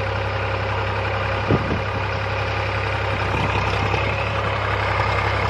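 Diesel engine idling steadily, with a single short knock about a second and a half in.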